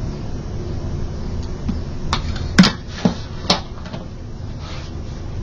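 Four sharp knocks and clacks of hard objects set down or handled on a work table, the loudest a little over halfway in, over a steady low background hum.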